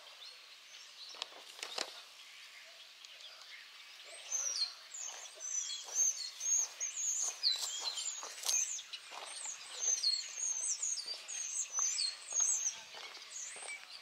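Songbirds chirping outdoors: many short high calls, quick rising and falling notes, starting about four seconds in over a quiet open-air background. A couple of faint clicks come in the first two seconds.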